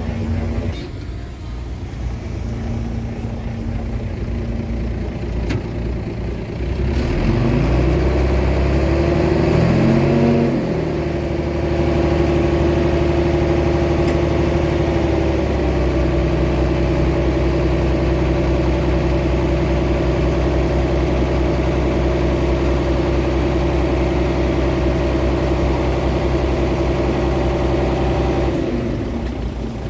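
Diesel engine of heavy earthmoving machinery running at low revs, then revving up about seven seconds in and holding a steady high-rev working note, easing off near the end.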